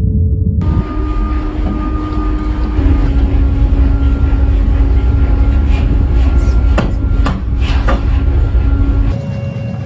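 Heavy factory machinery running with a loud, steady low rumble and a few sharp metallic clanks about two-thirds of the way through.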